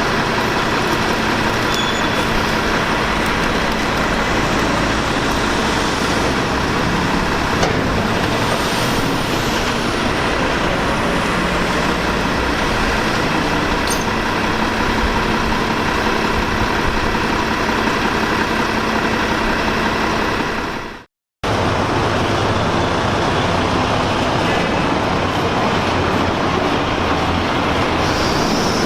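Maxon MSL side-loader garbage truck running: a steady, loud mechanical drone with a constant whine. The sound drops out for a moment about two-thirds of the way through.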